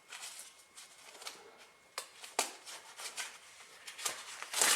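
A new glove being handled and pulled on: soft rustling with scattered sharp clicks and snaps, the loudest near the end.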